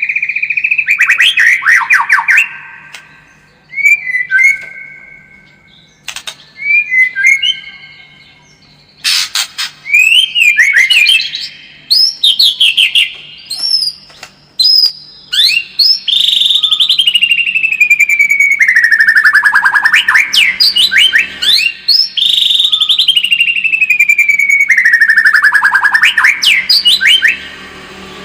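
White-rumped shama singing a loud, varied song of clear whistles and quick trills, with two long phrases in the second half that slide down in pitch. It is a male's fighting song, the kind played as a lure to rouse caged shamas.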